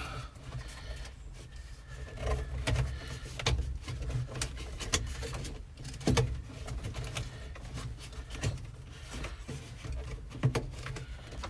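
Scattered clicks, knocks and rubbing as flexible AC/heater vent duct hose is pulled and poked through a tight gap behind a truck's dashboard, with a sharper knock about 6 s in and another near the end, over a steady low hum.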